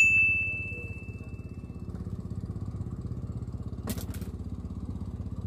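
A single bright ding, an edited-in alert sound marking a bite on the rod tip, rings out and fades over about two seconds. Under it a small engine runs steadily, and a short click comes about four seconds in.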